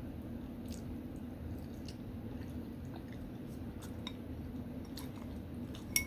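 Close-up chewing of beef smoked sausage, with soft wet mouth clicks and squishes over a low steady hum. A single sharp clink sounds near the end.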